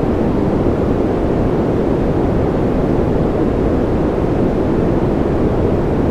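A steady, deep noise track for sleep: an even, dark rushing hiss weighted toward the low end, with little treble and no change or break.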